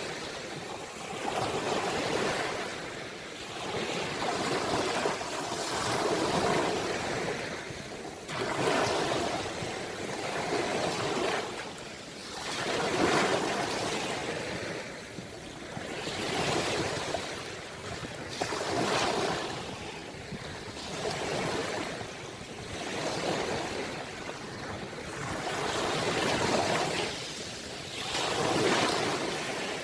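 Ocean waves breaking and washing on the shore, the surf swelling and falling back every two to four seconds.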